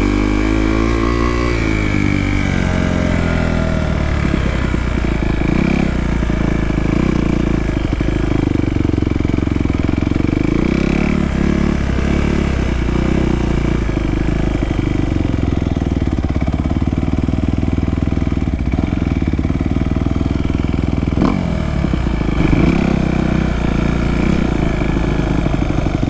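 Small dirt bike engine running, revving with its pitch rising and falling over the first few seconds and then holding at a fairly steady speed. There is one sharp knock about three quarters of the way through.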